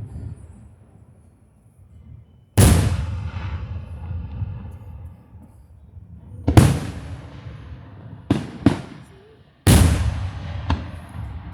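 Aerial firework shells bursting overhead: four big booms a few seconds apart, each trailing off in a long rumbling echo, with two quick sharp cracks between the third and the fourth.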